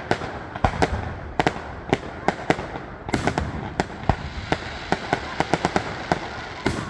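Fireworks display: an irregular string of sharp bangs from bursting shells, often two or three a second, over a continuous low rumble.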